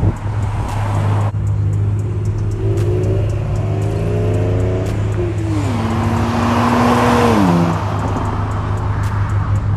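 Car engine revving, its pitch climbing in short steps, then falling, holding and falling again as the car pulls away. Under it runs the steady low rumble of another idling engine, with a loud rush of exhaust noise around the middle.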